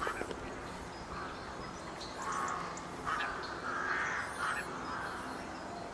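Birds calling: a few harsh calls in the middle, with faint high chirps above them.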